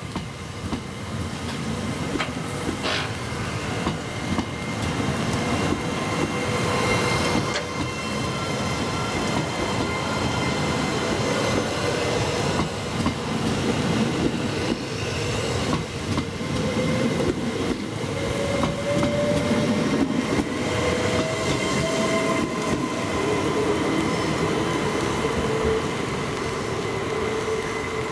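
Train running on the rails at close range, growing louder over the first few seconds and then running steadily. Thin steady tones and a few sharp clicks sit over the rumble, with a whine that slowly rises in pitch in the second half.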